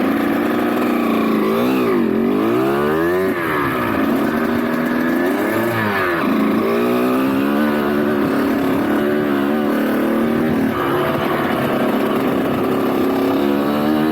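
Dirt bike engine revving as it is ridden. Its pitch climbs and drops several times in the first six seconds, runs at a steadier pitch after that, and rises again near the end.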